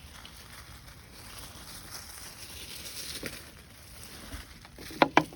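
Garden hose spraying water onto blackberry bushes, a steady hiss, with two sharp clicks near the end.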